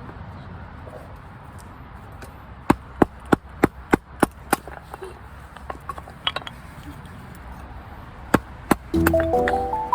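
Sharp knocks, a run of about seven blows at roughly three a second, then two more near the end. Music comes in just before the end.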